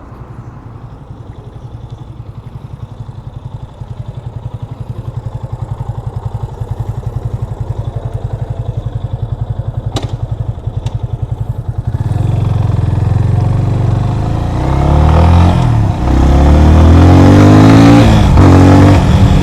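Yamaha FZ25's single-cylinder engine idling with an even low pulse, with two sharp clicks about ten seconds in. About twelve seconds in the motorcycle pulls away, and the engine note rises and falls repeatedly as it revs up through the gears, growing louder.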